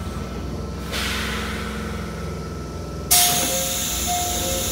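Mizuma Railway 1000 series electric train car rumbling steadily as it arrives at the station. About three seconds in, compressed air lets out a sudden loud hiss, and a two-note descending chime sounds twice.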